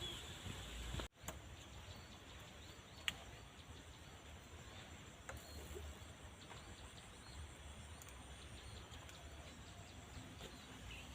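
Faint outdoor ambience: a steady insect drone with a few faint bird chirps, a brief dropout about a second in, and a single sharp click about three seconds in.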